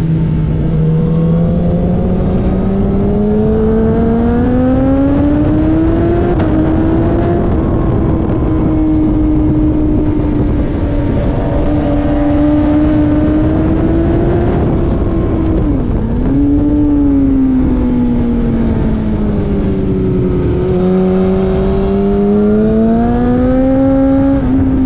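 Car engine running hard on a race circuit, heard continuously and close. Its note climbs steeply over the first six seconds, holds high, dips sharply about sixteen seconds in, sinks, then climbs again near the end as the car accelerates, lifts and accelerates again.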